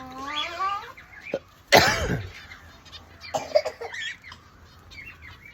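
Pet parrots calling: a pitched call that dips and rises, then a loud harsh screech about two seconds in, followed by a few shorter squawks.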